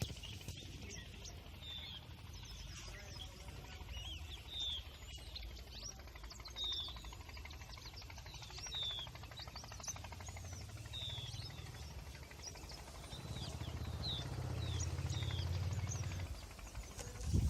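Birds chirping outdoors: short, high, repeated chirps about every second or two, over a low steady rumble that grows louder for a few seconds near the end.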